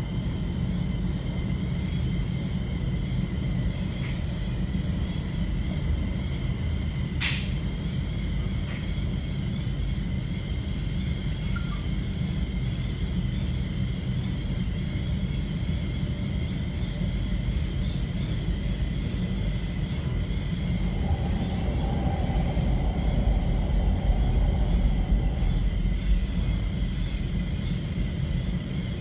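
Cabin running noise of an NS Sprinter Light Train electric multiple unit under way: a steady low rumble of wheels on rail with a faint steady high whine. There is one sharp click about seven seconds in, and the rumble grows louder for a few seconds late on.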